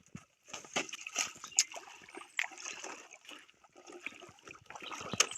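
Water splashing and trickling in short, irregular bursts.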